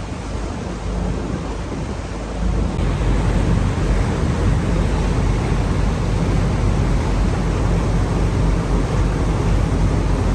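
Wind buffeting the microphone aboard a moving river ferry, over the steady low rumble of the boat and water; it grows louder about three seconds in.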